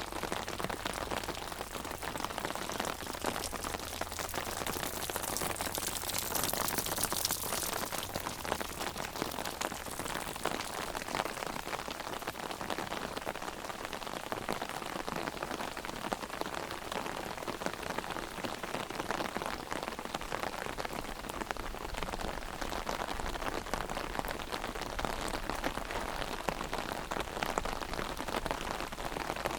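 Heavy rain drumming on an umbrella overhead, a dense, steady patter of drops, with a brief swell of hiss about six seconds in.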